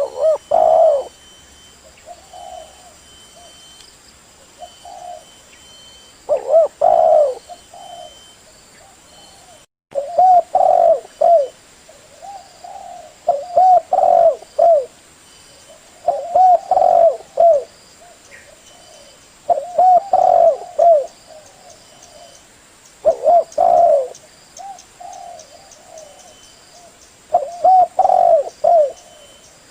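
Spotted dove (tekukur) cooing: short phrases of several low, soft coos repeated every few seconds. The sound drops out for an instant about ten seconds in.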